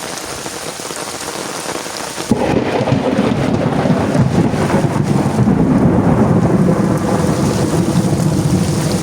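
Heavy rain falling steadily, then a sudden clap of thunder a little over two seconds in that rolls on as a long, loud rumble under the rain.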